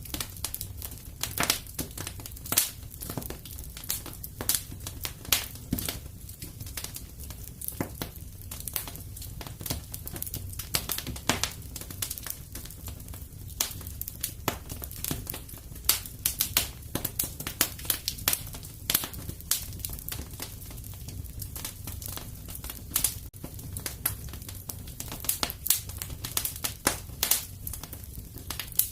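Fire crackling in a fireplace: dense, irregular sharp pops and snaps over a steady low rumble of the flames.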